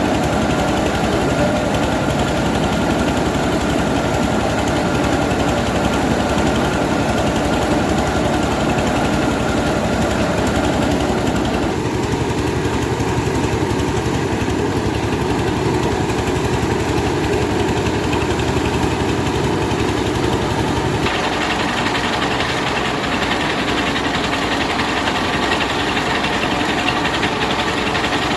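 Rice milling machine running continuously with a steady engine-like drone. The sound changes abruptly twice, about twelve seconds in and again about twenty-one seconds in.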